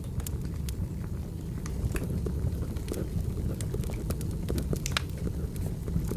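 Wood fire crackling: a steady low rumble from the burning logs, with scattered sharp pops and snaps throughout.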